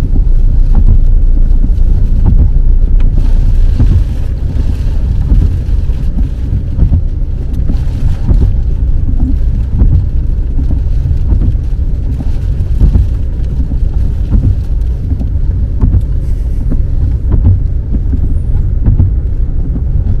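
Car driving, heard from inside the cabin: a loud, steady low rumble of road and engine noise, a little quieter after about four seconds.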